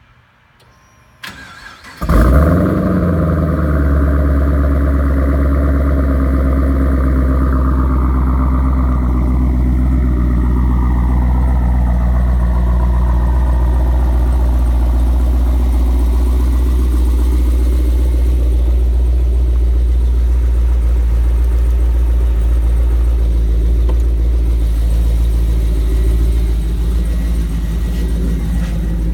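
2013 Camaro ZL1's V8 being started: a short click, then about two seconds in the engine catches with a brief flare of revs and settles into a loud, steady idle whose pitch eases down over the following several seconds.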